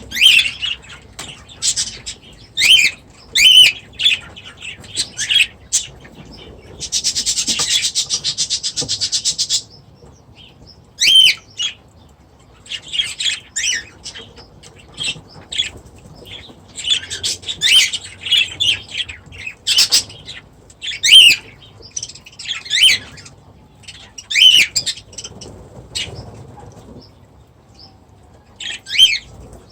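Small aviary birds chirping with short, repeated high calls, and a harsh, fast buzzing chatter for a couple of seconds about seven seconds in.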